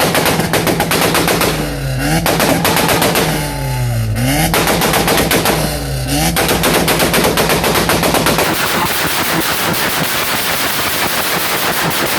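Car engine held on a 2-step launch limiter, its exhaust popping and backfiring in a rapid machine-gun crackle. The revs dip and climb back three times, about two seconds apart.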